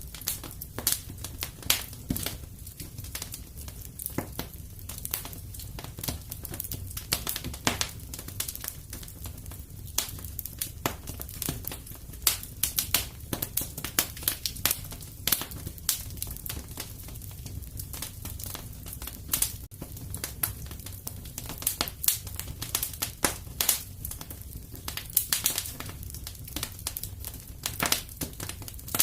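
Wood fire in a fireplace crackling, with irregular sharp pops and snaps over a steady low rumble of flame.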